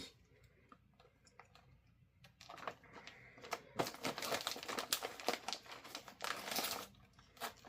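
Potato chip bag being torn open and crinkled: a dense crackling rustle starting about two and a half seconds in and lasting some four seconds, after a few small clicks.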